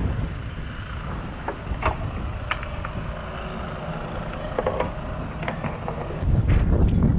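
Wind buffeting the microphone with a low rumble, getting louder about six seconds in, with a few scattered light knocks and clicks.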